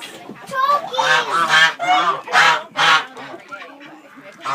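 Geese honking: a quick run of short honks over the first three seconds, then quieter.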